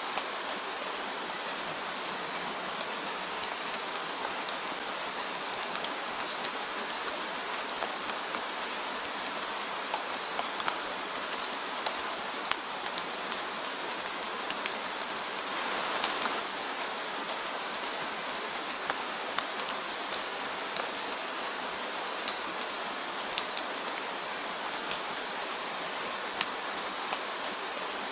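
Steady rain falling, a constant hiss with many individual drops pattering sharply on a surface, swelling briefly about halfway through.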